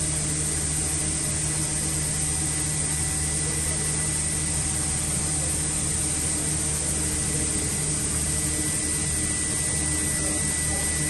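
Steady machine drone: a low hum with a thin, steady high whine over it and an even hiss, unchanging throughout.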